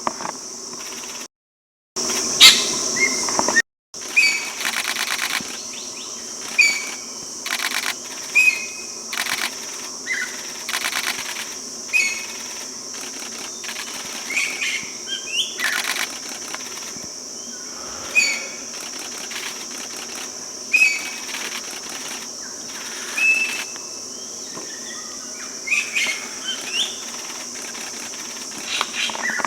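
Forest bird calls: short whistled notes repeating every second or two over a steady high-pitched insect drone, with bursts of rapid ticking. The sound drops out briefly twice near the start.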